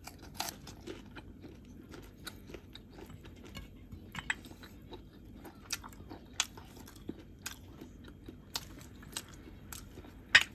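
Close-miked chewing of a mouthful of fried fish and vegetables: irregular small clicks and crunches from the mouth, with two sharper ones near the end.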